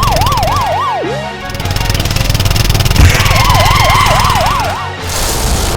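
Fast wailing police-siren sound effect over a steady low engine rumble. The siren drops off about a second in, a sharp thump hits about three seconds in, and the siren wails again, followed by a short hissing whoosh near the end.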